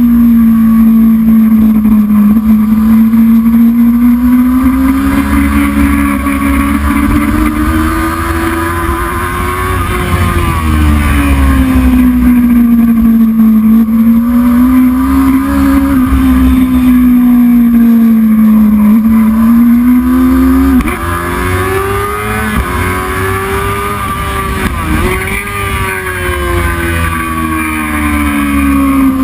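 Racing motorcycle engine running hard at high revs, its pitch rising and falling as the throttle opens and closes, with quick drops and jumps in pitch near the end as it shifts gear. Low wind rumble runs underneath.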